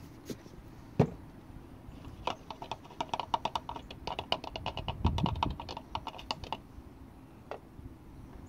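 A single sharp click, then a fast run of small clicks, about ten a second, for roughly four seconds, with a low thud in the middle and one last click near the end.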